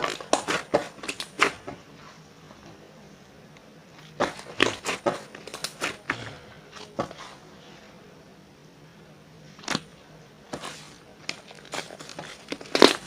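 Sticky whipped-cream slime being pressed and stretched by hand, giving clusters of sharp pops and clicks with short pauses between them.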